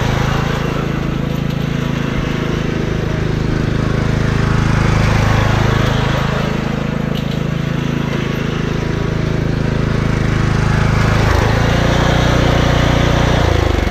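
Riding lawn mower engine running steadily under load as it tows a wagon. Near the end the engine note drops as it slows down.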